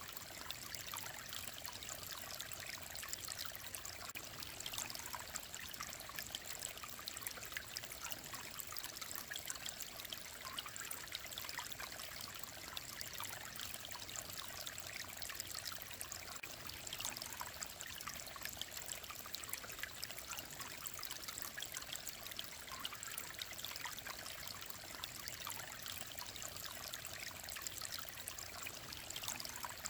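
Mountain stream flowing and trickling steadily, an even rush of water with fine splashing detail.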